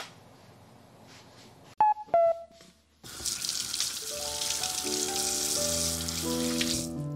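Two short ringing clinks, then a kitchen tap turned on and water running into the sink for about four seconds, stopping just before the end.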